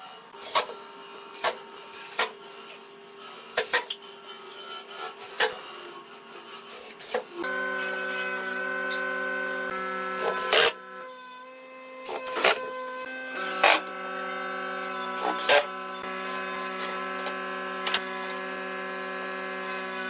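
An electric power tool's motor running at a steady hum, louder and fuller from about seven seconds in, with sharp knocks on wood every second or two.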